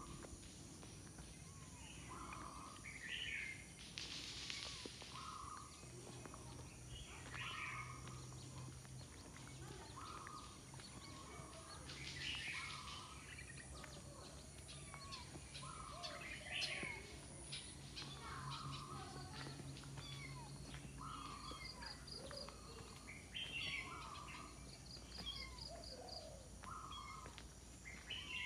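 Birds calling over and over, a short call every second or two, over a steady outdoor background with a faint low hum through the middle. A fast, high pulsing trill joins in near the end.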